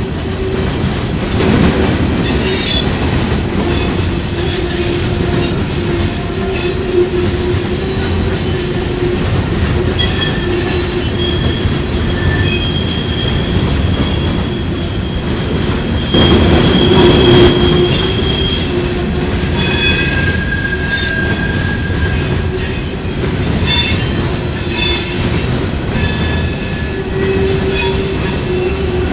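Empty rock hopper cars of a Union Pacific freight train rolling past on a curve, the wheels squealing against the rails in shifting high-pitched tones over a steady rumble. The squeal is wheel flanges rubbing as the cars take the curve.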